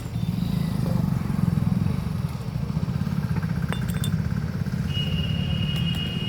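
Motorcycle engine running steadily at idle. A steady high-pitched whine joins it about five seconds in.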